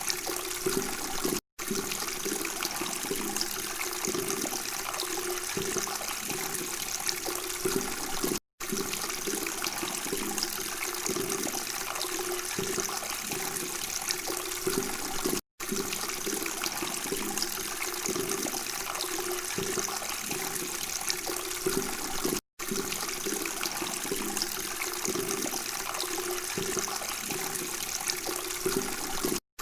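Running water trickling and babbling steadily, with the same short recording looped: a brief moment of silence breaks it about every seven seconds.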